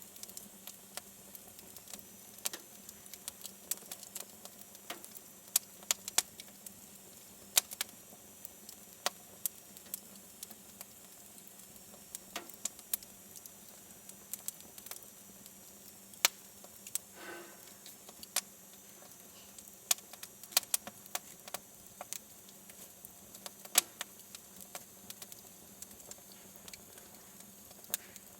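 Wood fire in a fireplace crackling, with sharp, irregular pops and snaps from the burning logs over a faint steady hum.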